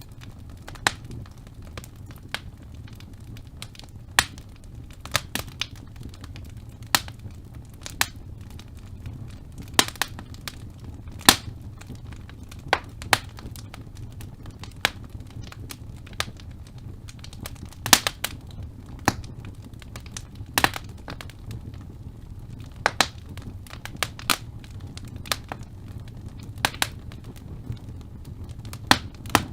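Wood fire in a fireplace crackling: sharp irregular pops and snaps from the burning logs, one every second or so, over a steady low rumble of the flames.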